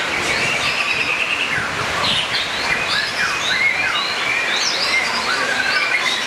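Many caged songbirds singing at once on contest hanging poles: a dense tangle of overlapping chirps, trills and quick rising and falling whistles.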